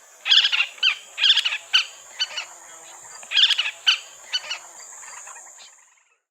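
Pratincole calling: a run of short, chattering call notes in irregular clusters, about a dozen in all, over a steady high-pitched hiss. The calls stop just before the end.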